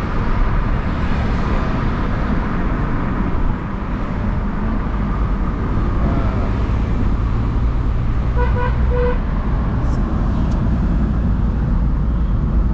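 A car on the move, engine and road rumble steady from inside the cabin, with a car horn giving a short run of beeps about eight and a half seconds in.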